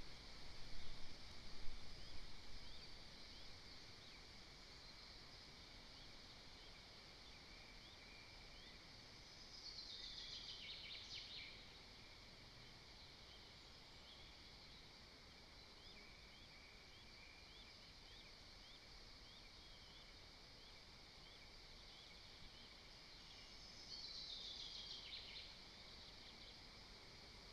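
Faint woodland ambience: a steady high-pitched background with many short repeated chirps, through which a small songbird sings a descending trilled phrase twice, once a little before the middle and again near the end. A few louder low noises sound in the first couple of seconds.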